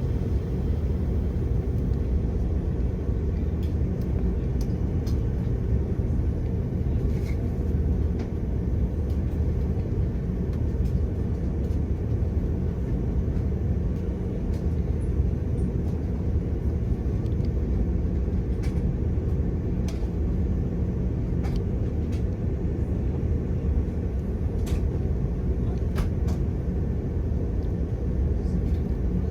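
Steady low rumble inside the cabin of an Airbus A330-300 taxiing, its Rolls-Royce Trent engines near idle, with a few faint clicks and rattles now and then.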